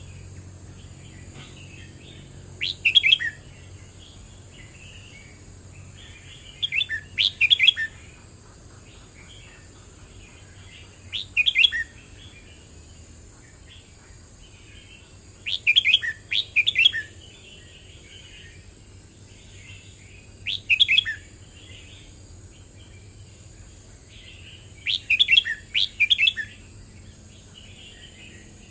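Red-whiskered bulbul singing: six short, loud, warbling phrases, one every four to five seconds, with softer twittering between them.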